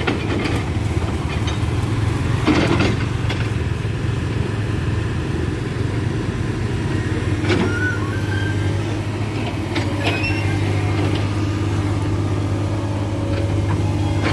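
Heavy diesel engine running steadily at low speed, with a few knocks or clanks, the clearest about two and a half seconds and seven and a half seconds in.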